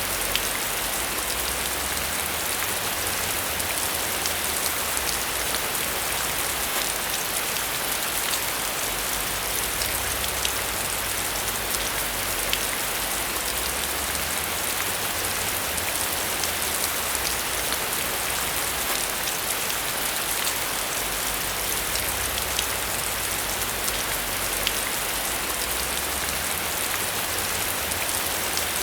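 Steady rain falling on a surface, a dense even hiss with many small drops ticking through it.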